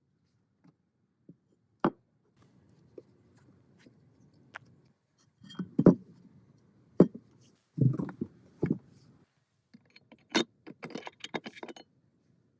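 Metal parts and tools being handled on a workbench: scattered knocks and a few heavier thuds, then a quick run of light metallic clinks near the end.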